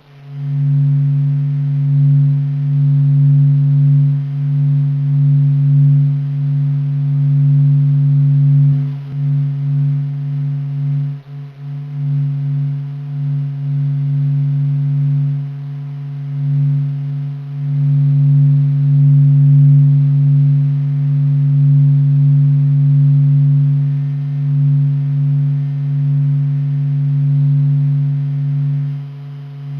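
NASA's sonification of the Sun's oscillations: a steady low drone made of two strong low pitches with fainter tones above. It swells and fades slowly, with brief dips about nine and eleven seconds in.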